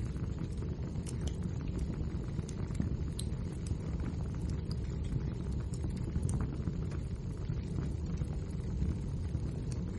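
Wood fire burning in a fireplace: a steady low rumble of flames with frequent small, sharp crackles and pops.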